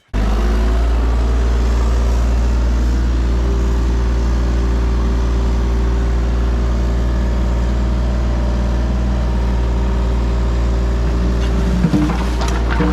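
Mini excavator's diesel engine running at a steady speed, with a couple of short knocks near the end.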